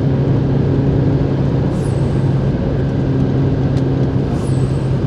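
Renault Mégane III RS's 2.0-litre turbo four-cylinder (F4RT) running at steady revs with road and tyre noise, heard from inside the car while cruising.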